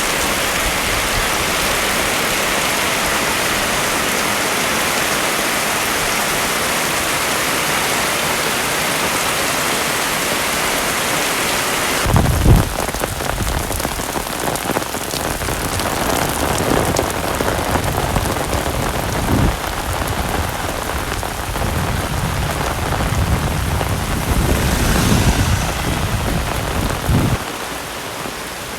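Heavy rain pouring steadily, a dense hiss. About twelve seconds in, the sound changes abruptly: the hiss thins and low rumbles come and go until near the end.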